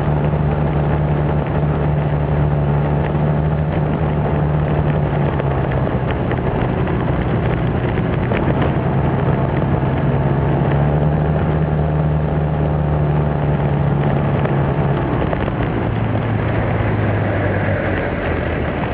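Small motorbike engine running steadily under way, heard from the bike, over a steady hiss. The engine note drops lower about fifteen seconds in.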